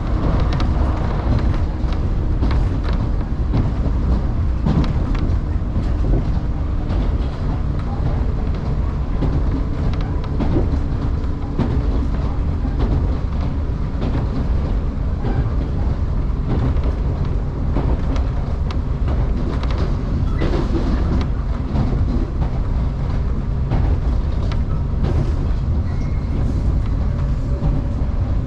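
JR Kusatsu Line electric train running along the track, heard from inside the car: a steady low rumble with scattered clicks from the wheels over the rails.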